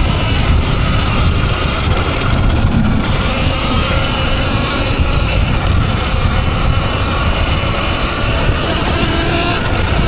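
Electric dirt bike being ridden, with loud wind rush on the microphone and a faint motor whine that wavers up and down.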